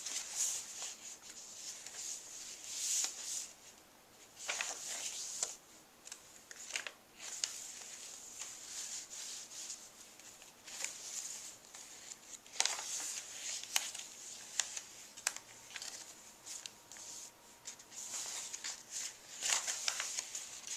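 Paper pages of a handmade junk journal rustling and crinkling as they are turned and handled, in irregular bursts with a few sharp ticks.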